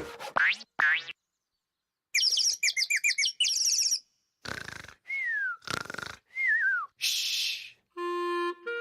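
A string of cartoon sound effects. A rising whistle comes first, then a burst of bird-like chirping and trilling, then two falling whistles among hissy bursts. Near the end comes a run of stepped musical notes.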